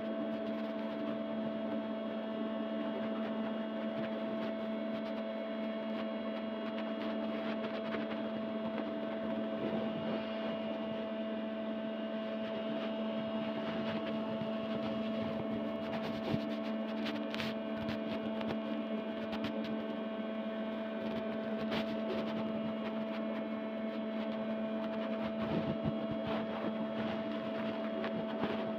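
A steady electrical-sounding hum holding two constant tones, with a few faint clicks scattered through it.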